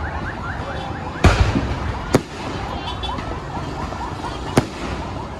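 Fireworks going off: three sharp bangs, the first about a second in with a low rumble after it, a second one about a second later, and a third near the end, over a steady din of more distant bangs and crackle.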